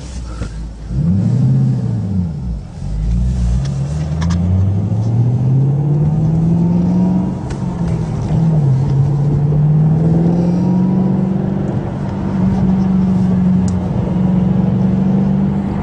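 Supercharged 5.8-litre V8 of a 2013 Ford Mustang Shelby GT500, blipped once, then accelerating hard with its pitch climbing. The pitch drops at an upshift about eight seconds in, then climbs again and holds steady.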